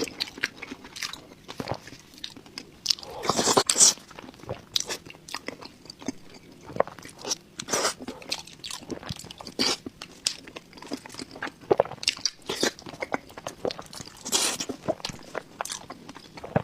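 A person chewing and biting food, with many irregular crisp crunches and mouth clicks, and louder bites about three and a half seconds in and near the end.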